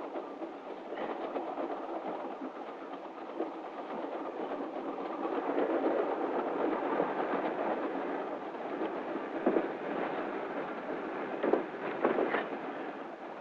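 Steady running noise of a moving passenger train heard from inside the sleeping car, on an early sound-film soundtrack, with a few short knocks near the end.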